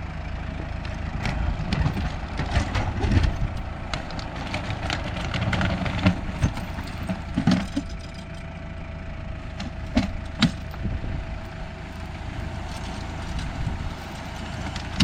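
An engine idling steadily while a hitched land leveler's folded sections unfold, with scattered metal clanks and knocks and a faint steady whine through the middle stretch.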